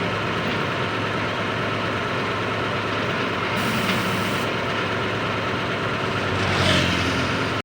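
Heavy diesel engine of road-construction machinery running steadily at idle, with a short high hiss about three and a half seconds in.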